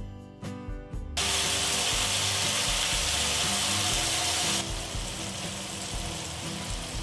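Tomato and ivy gourd masala sizzling in hot oil in a frying pan, starting abruptly about a second in and turning to a softer sizzle after about four and a half seconds, around when a thick ground paste is tipped into the pan. Background music plays underneath.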